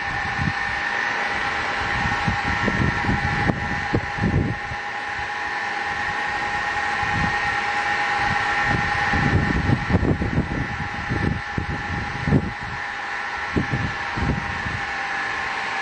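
Large diesel engine running just after a cold start: a steady high whine over an uneven low chugging.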